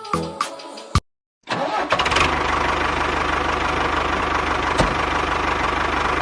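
A few short musical notes, then after a brief gap an engine starts and runs steadily with a fast, even low chugging.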